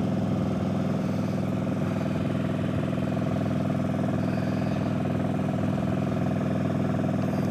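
Motorcycle engine running steadily while cruising, heard from inside the rider's helmet, with wind rushing past the slightly opened face shield.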